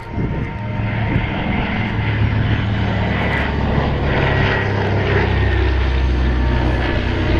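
Twin Pratt & Whitney R-1830 radial engines of a PBY Catalina flying boat droning in flight. The sound grows louder over the first two seconds, then holds steady and loud as the aircraft passes close.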